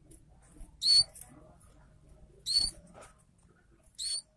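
Red-headed kemade songbird giving three short, high, squeaky call notes, about a second and a half apart.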